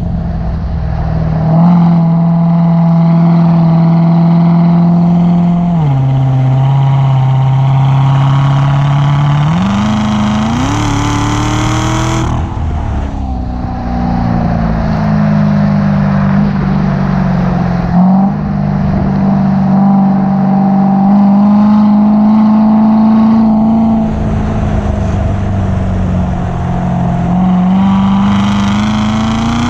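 The supercharged 6.2-litre LT4 V8 of a 2016 Corvette Z06 running under way. Its pitch steps down about six seconds in, climbs as the engine revs up from about nine to twelve seconds, and drops sharply at a shift. After that it holds with gentle rises and falls.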